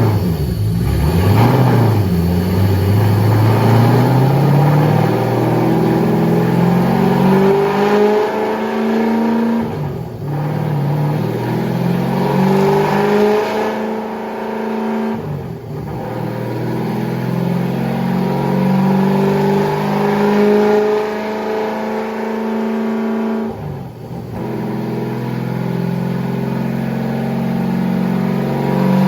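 Supercharged V8 of a drag police car making a pull on a chassis dyno, now firing on all eight cylinders after a dead number 5 injector was fixed. The engine note climbs steadily and drops sharply three times, about every six to eight seconds, as it shifts through the gears.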